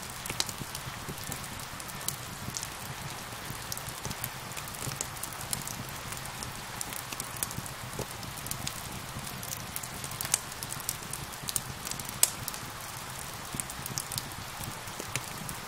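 Steady rain hissing together with a wood fire crackling, with frequent sharp pops scattered through it. The loudest pop comes about twelve seconds in.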